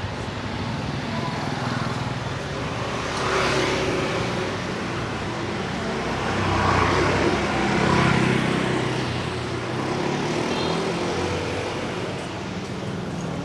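City street traffic with vehicle engines running, swelling as vehicles pass close by about three seconds in and again around seven to eight seconds.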